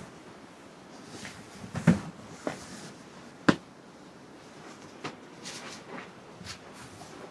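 Irregular knocks and clicks of objects being handled, with a sharp, loud click about three and a half seconds in and a duller knock about two seconds in.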